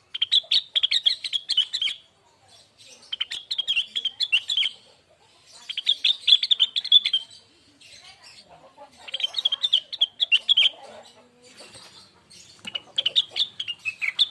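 A rengganis (cucak wilis) leafbird singing in repeated bursts of fast, chattering, high notes, five phrases of about two seconds each with short pauses between.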